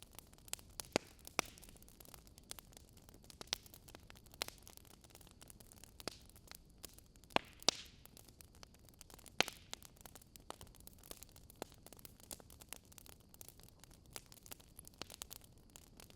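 Wood fire crackling: irregular sharp pops and snaps over a faint steady hiss, a few louder pops standing out.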